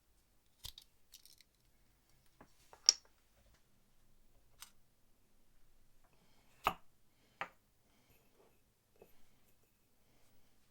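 Scattered sharp clicks and taps of small objects being handled at a workbench, about six in all. The loudest comes about three seconds in, and two more follow close together a little past the middle.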